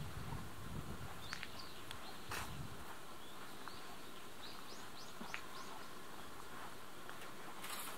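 Quiet outdoor ambience with small birds chirping, including a quick run of five or six high chirps around the middle. A low rumble sounds in the first two seconds or so, and a short burst of noise comes near the end.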